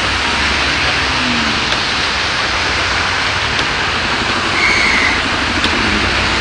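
Heavy rain pouring steadily onto the street, with a car running past on the wet road. There is a brief high tone about three-quarters of the way through.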